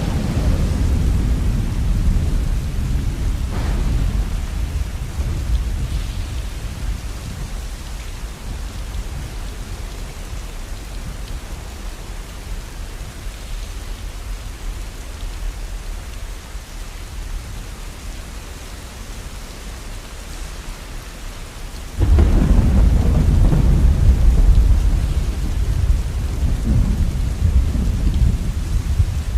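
Steady rain with two rolls of thunder: one breaks in sharply at the start and rumbles away over about ten seconds, and another breaks in suddenly about 22 seconds in and keeps rumbling.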